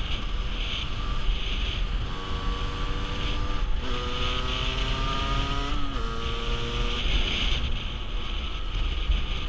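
50cc motorcycle engine pulling along the road, its pitch climbing steadily with speed, then dropping about six seconds in as at a gear change. Heavy wind rumble on the microphone runs underneath and covers the engine in the first two seconds and the last two.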